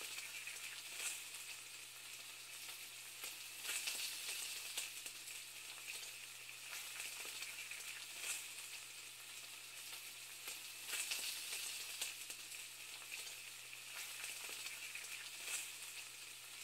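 Faint food sizzling in a hot pan: a steady hiss broken by irregular crackles and pops, with a steady low hum underneath.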